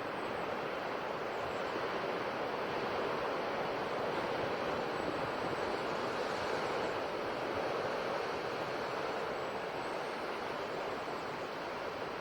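Sea waves washing on the shore: a steady rush of surf that swells slightly for a few seconds in the middle.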